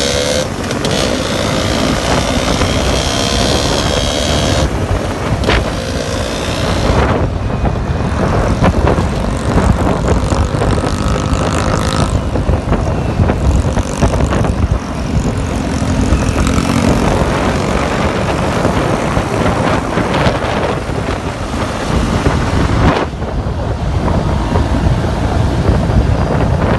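A motorbike engine running on the move, its pitch gliding in the first few seconds, under heavy wind rush on the microphone.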